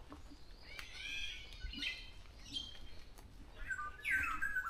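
Wild birds chirping: a run of short high calls, then near the end a louder call with notes sliding down in pitch.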